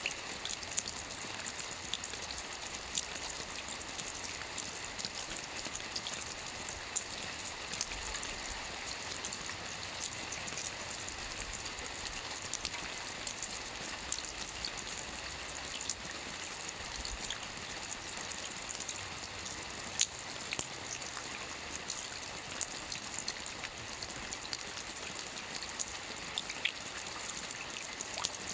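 Steady rain falling, an even hiss with scattered sharper drops landing close by, one louder drop about twenty seconds in.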